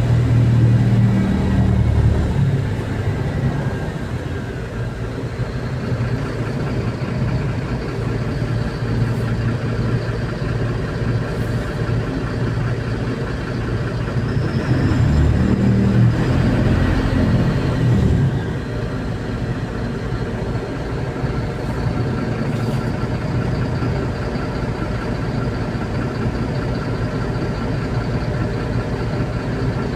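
MAZ-203 city bus engine running, heard from inside the passenger cabin. It grows louder twice, over the first few seconds and again about halfway through as the bus accelerates, and runs quieter in between.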